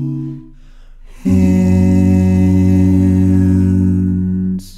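Male vocal quartet singing. The chord of the last phrase fades out, then the group comes back in on a long, steady closing chord that is held until it cuts off near the end.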